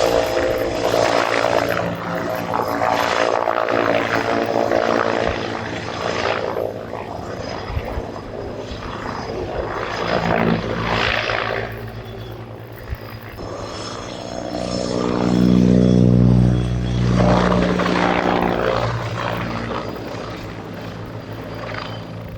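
AH-129D Mangusta attack helicopter flying display manoeuvres, its rotor and turbine sound swelling and fading. It is loudest about two-thirds of the way through, as it comes close.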